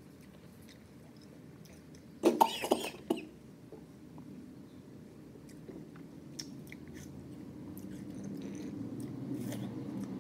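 A person chewing and biting into watermelon and grapes, with wet mouth noises and small clicks. About two seconds in there is a brief loud noise from the throat.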